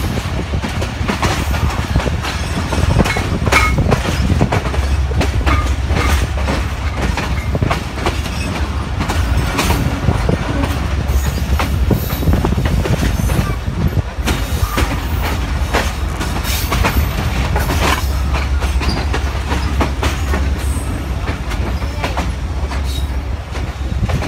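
Moving passenger train heard from an open window of the carriage: the wheels clatter over rail joints and points with frequent, irregular sharp clacks above a steady low rumble.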